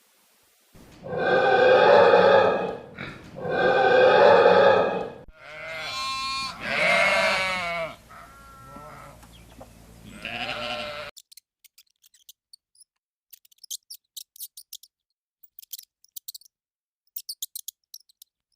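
Bleating farm animal: two long, loud bleats, then several shorter wavering bleats. From about eleven seconds in, only faint high clicks.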